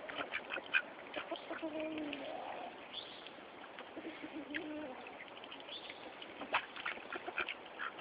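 Domestic ducks quacking, a scatter of short calls with a few longer pitched ones between.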